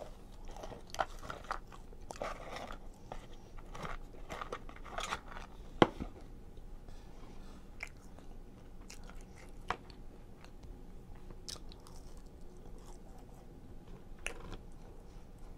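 Chewing and crunching of fried chicken nuggets and waffle fries, with small mouth clicks, busiest in the first six seconds and sparser after. One sharp click about six seconds in is the loudest sound.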